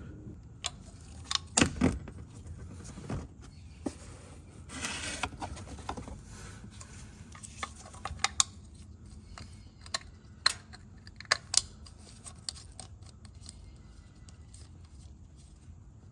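Irregular clicks, clinks and knocks of small metal and plastic parts and hand tools being handled while working on a car's oil filter housing, with a short noisy rush about five seconds in.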